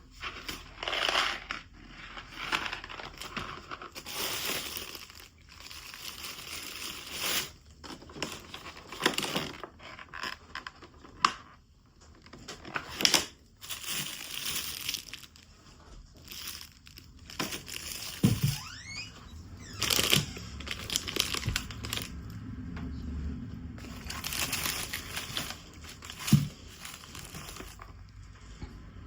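Irregular rustling and crinkling handling noises with occasional knocks, including two thumps, one about two-thirds of the way through and one near the end.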